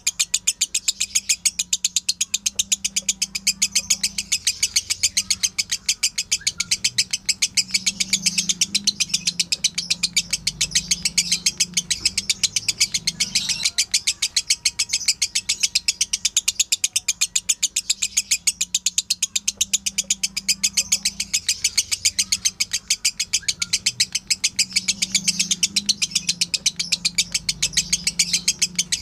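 Lovebird in a long 'ngekek' chatter: an unbroken run of rapid, high chirps at about five a second, the continuous chattering song used as a training recording for other songbirds.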